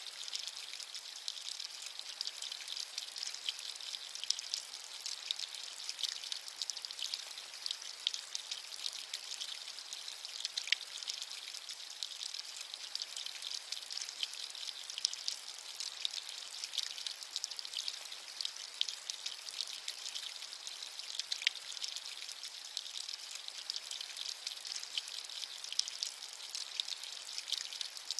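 Steady rain, a fine hiss full of small drop ticks, with nothing rising or falling.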